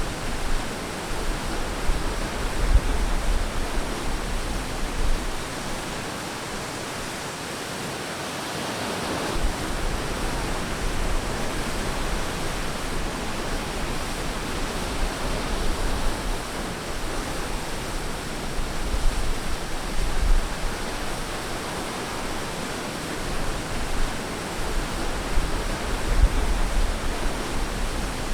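Ocean surf on a beach: a continuous hiss of breaking and washing waves that swells and ebbs, with deep low rumbles that come and go.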